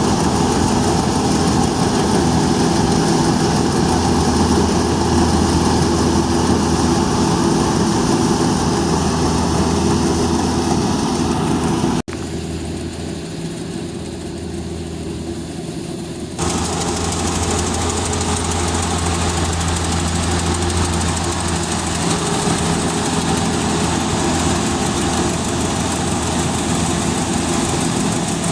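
Rice combine harvester's engine running steadily under load, a dense hum with many steady low tones. About twelve seconds in the sound cuts suddenly to a quieter, thinner version for about four seconds, then returns at full level.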